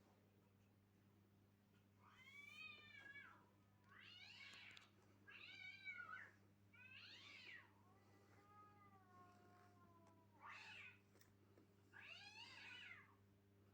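A cat meowing repeatedly, about seven high-pitched meows a second or so apart; one near the middle is longer and lower, falling in pitch. A steady low electrical hum runs underneath.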